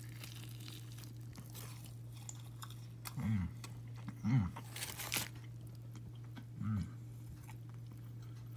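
A person biting into and chewing a crispy hand-breaded fried chicken and waffle sandwich: scattered crunches from the breading, with three short hums of the voice while chewing. A steady low hum runs underneath.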